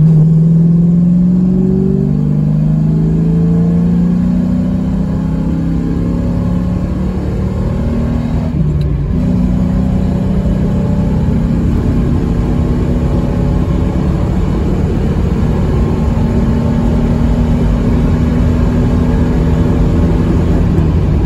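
2000 Ford Mustang GT's 4.6-litre V8, breathing through an off-road X-pipe and Borla Stinger cat-back exhaust, heard from inside the cabin accelerating hard from about 40 mph. The note rises steadily in third gear, drops with a quick shift to fourth about nine seconds in, then climbs again as the car pulls on past 100 mph.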